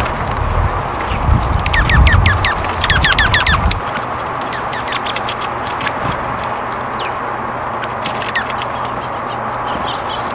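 Small songbirds chirping: a quick run of short, downward-sliding chirps between about one and four seconds in, then scattered single high notes. A low rumble underlies the first four seconds and stops.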